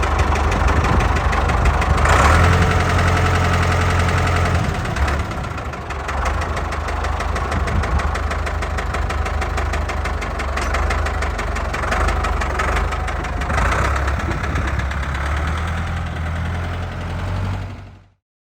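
Ford 6610 tractor's four-cylinder diesel engine running at idle, louder for a couple of seconds about two seconds in.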